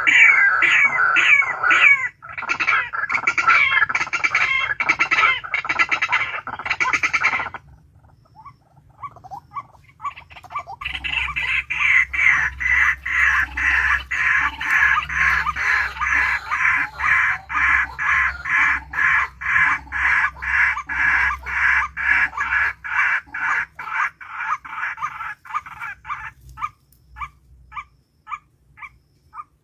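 A bird calling fast and over and over, several short harsh notes a second, in two long runs with a short pause between them; the calls thin out to small separate chirps near the end.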